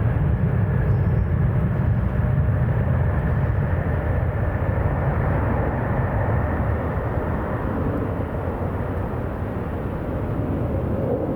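Boeing 767-400ER's two General Electric CF6-80C2 turbofans at takeoff power, a steady low rumble with a rushing haze above it that eases slightly toward the end.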